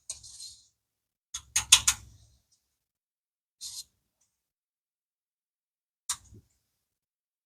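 Hand work on engine parts: a few sharp clicks and knocks, a quick cluster of them about one and a half seconds in and a single one about six seconds in, with two brief scrapes between.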